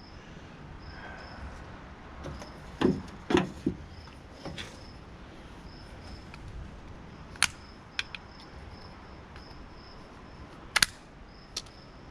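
Scattered sharp clicks and knocks of hand tools working apart a small plastic water-heater pump housing to get at its motor, about eight separate strokes. A faint high cricket chirp repeats in the background.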